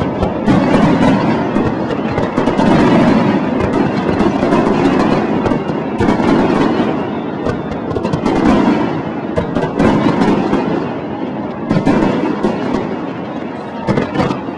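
A fireworks display: a dense, continuous barrage of bursting shells and crackling, the loudness swelling and dipping every second or so.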